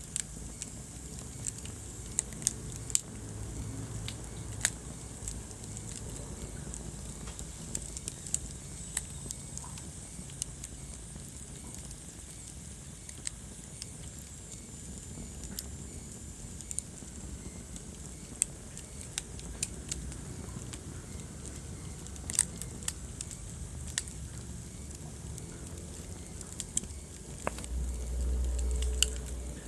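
Wood fire in a fireplace crackling, with irregular sharp pops and snaps over a low steady rumble of burning. The rumble swells louder for a second or two near the end.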